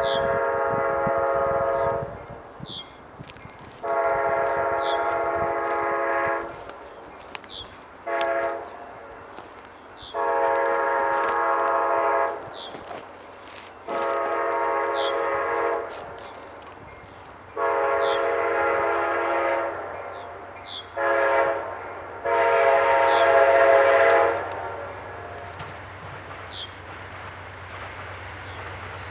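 Amtrak passenger locomotive's multi-chime air horn sounding the grade-crossing signal twice: long, long, short, long, then again long, long, short, long. A low steady rumble of the approaching train builds near the end.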